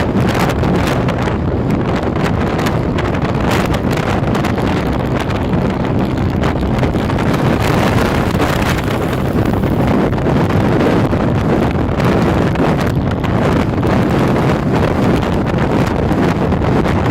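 Heavy wind buffeting on the microphone, loud and steady, over the running of a moving vehicle.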